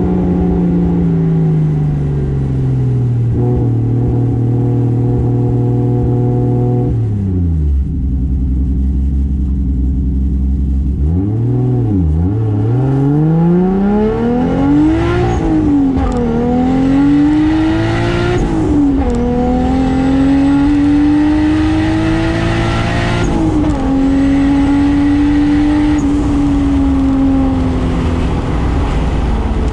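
Toyota Soarer's turbocharged 2JZ straight-six engine under driving. Its revs fall and settle low, dip further, then climb several times with quick drops between, the pattern of shifts through the R154 manual gearbox. Near the end it holds at a steady mid pitch before easing off.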